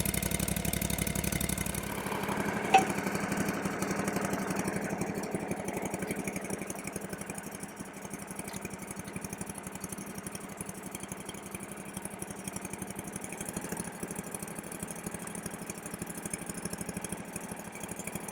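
Small engine running steadily at idle, with a single sharp click about three seconds in.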